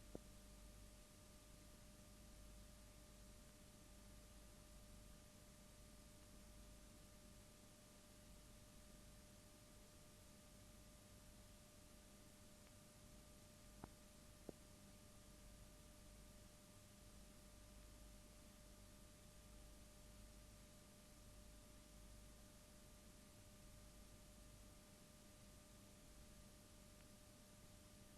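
Near silence: a faint steady electrical hum and hiss, with two tiny clicks about halfway through.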